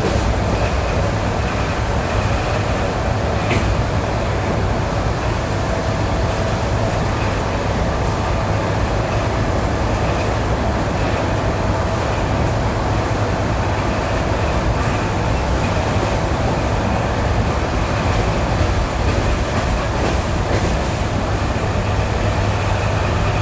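ED9E electric multiple unit running at speed, heard from inside the car: a steady low rumble with a steady whine, and an occasional knock of the wheels over the joints of jointed rail.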